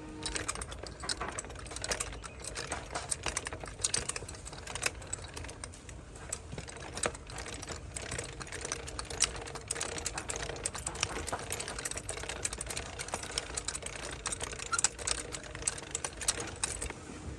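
Rapid, irregular clicking and light metallic rattling, a dense run of sharp ticks that keeps going without a break.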